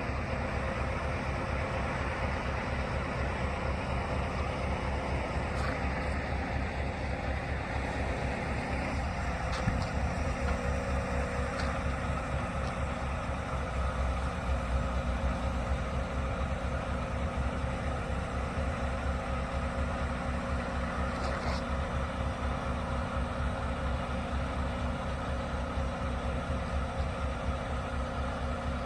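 Scania S730 truck's V8 diesel engine idling steadily, with a few faint clicks.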